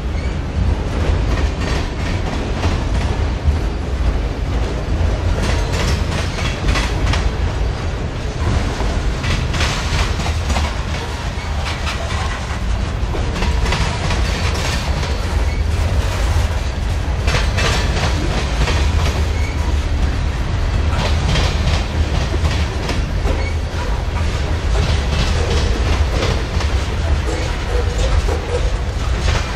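Freight train cars rolling past close by: a steady low rumble with clusters of clicks as the wheels pass over the rail joints.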